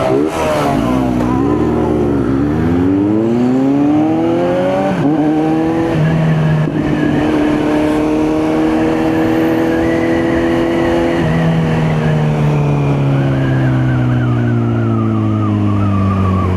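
Motorcycle engine pulling hard, its pitch wavering then climbing with a drop at a gear change, holding steady for several seconds, then falling steadily as it slows.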